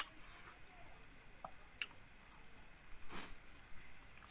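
Eating sounds: soft wet squishes and small clicks of someone chewing a meal of rice and pork, with a louder, noisier sound about three seconds in.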